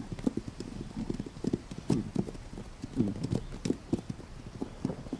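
Wild horses' hooves on the ground, an irregular clip-clop of dull thuds with occasional sharper clicks.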